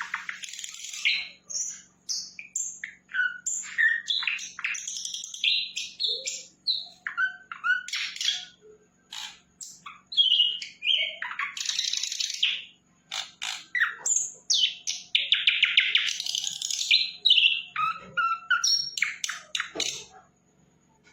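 A sikatan londo flycatcher singing vigorously: a rapid, varied run of whistles, trills and chattering notes, falling silent about a second before the end.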